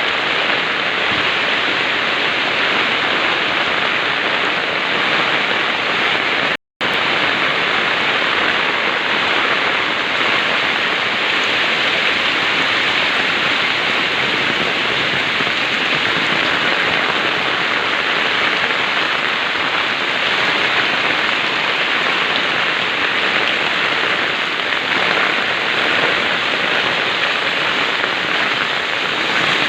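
Heavy rain pouring steadily, a dense even hiss, broken once by a split-second gap of silence about seven seconds in.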